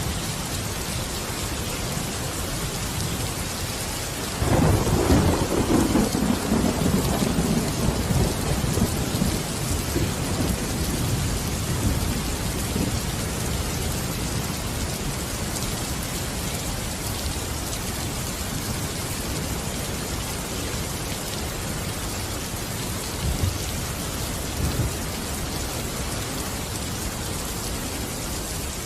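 Steady rain falling, with a clap of thunder that breaks in suddenly about four seconds in and rumbles away over several seconds; fainter low rumbles come again near the end.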